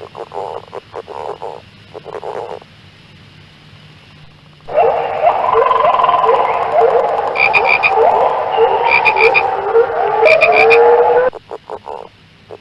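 Frogs calling. First comes a run of rapid pulsed calls. About five seconds in, a loud chorus of many frogs starts, with overlapping short rising notes and now and then a quick high trill. It cuts off abruptly near the end, giving way to pulsed calls again.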